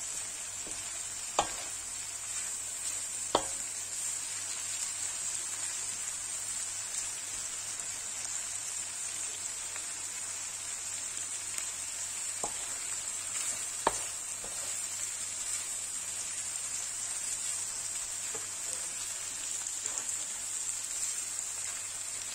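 Diced meat and vegetables sizzling steadily in a non-stick pan, frying in their own fat with no water, as a wooden spoon stirs them and knocks sharply against the pan a few times.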